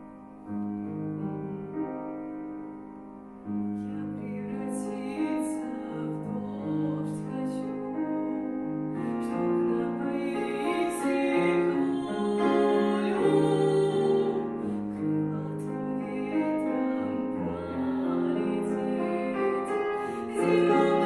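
Piano accompaniment playing slow held chords, joined about three and a half seconds in by a female voice singing a slow ballad in Russian.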